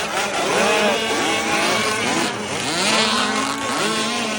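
Several radio-controlled racing boats' small motors running at once, their pitches overlapping and repeatedly rising and falling as they rev up and down.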